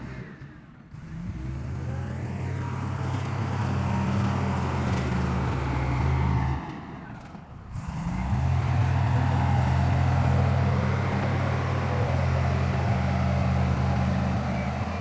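Heavy diesel engine of earthmoving machinery running steadily at work. It drops away briefly near the start and again about halfway through, then comes straight back.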